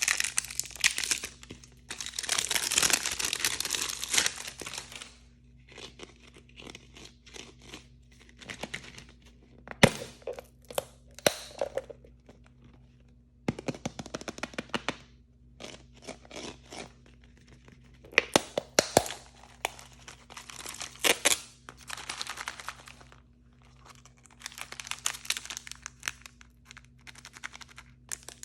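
Hands tearing open and crinkling plastic blind-bag packaging in irregular bursts, with sharp clicks and taps between them. The longest tear-and-crinkle comes about two to five seconds in.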